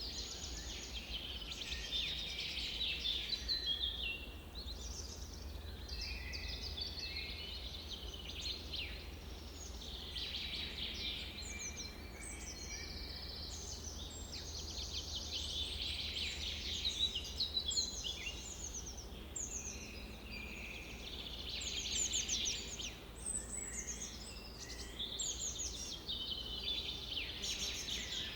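Several birds chirping and trilling continuously, their short calls overlapping, over a steady low rumble.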